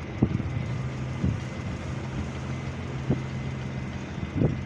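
A large engine idling steadily with a low hum, with a few sharp knocks on top.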